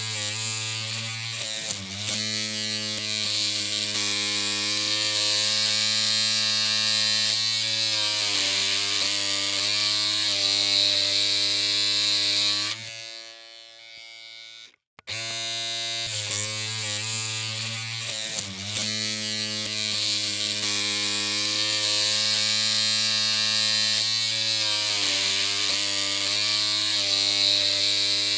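Electric hair clippers running with a steady buzzing hum. The pitch wavers briefly about two seconds in. At about 13 s the hum fades and cuts off, then starts again about two seconds later.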